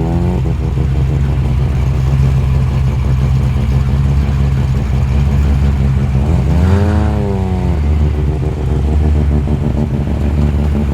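A muscle car's engine running with a steady, loud rumble, given one quick rev about six and a half seconds in that rises and falls back to idle within about a second.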